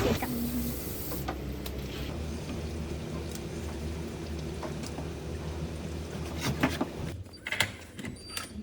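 Steady low hum of a car's engine and road noise, as heard inside a moving car, with a few light clicks and knocks.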